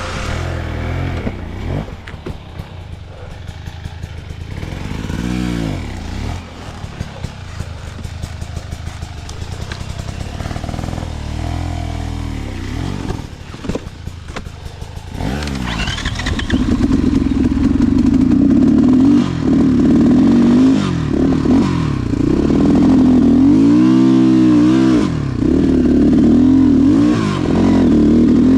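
Motorcycle engine running and revved up and down again and again. It gets much louder about halfway through and stays loud, with several more swells of revs.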